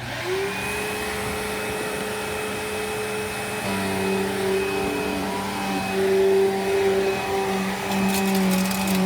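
Bissell Rewind SmartClean upright vacuum cleaner switched on: the motor spins up at once to a steady whine. About four seconds in the tone changes and gets louder, and a run of sharp crackling clicks comes near the end.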